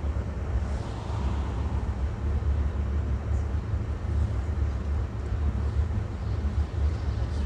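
Steady low rumble of a car's engine and road noise heard from inside the moving vehicle.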